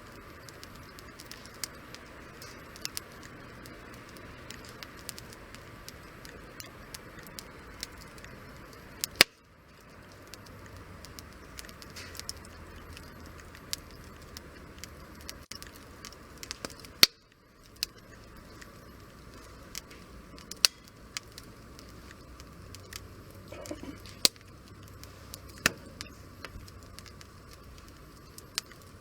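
Wood campfire crackling, with frequent small sharp pops over a steady low hiss and two much louder snaps about nine and seventeen seconds in.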